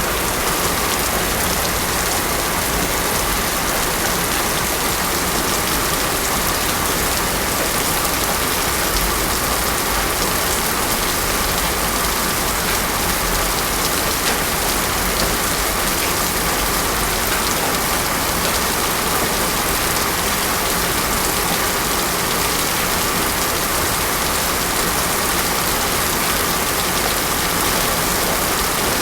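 Heavy rain falling steadily on a paved road: a dense, even hiss with no thunder.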